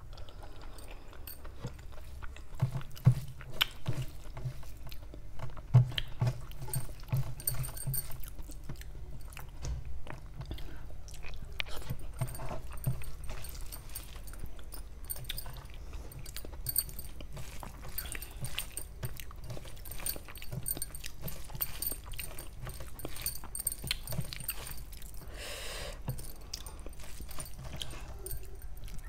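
A person chewing mouthfuls of rice and chicken kofta curry, with small wet mouth clicks and fingers squishing through the rice on a steel plate. A few louder dull knocks come in the first six seconds.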